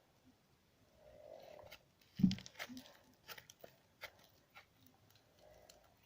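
Toy slime squeezed and worked in the hand, giving a soft squelch, then a dull thud about two seconds in, followed by a run of short wet pops and clicks.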